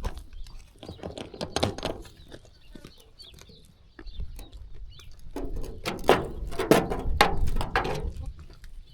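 Sheep bleating: a short burst of calls about a second in, then a longer run of loud bleats from about five to eight seconds in, with scattered clicks and knocks.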